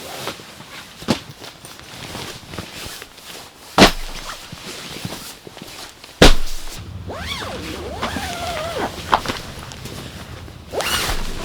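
A few sharp knocks or thuds a couple of seconds apart, then a short wavering tone that rises and falls twice, over a low steady hum.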